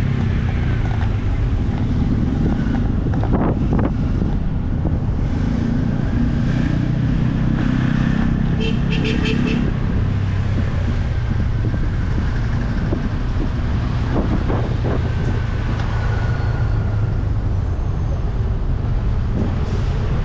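A motor vehicle running steadily, a continuous low engine rumble with road noise. A short run of rapid faint high ticks comes about nine seconds in.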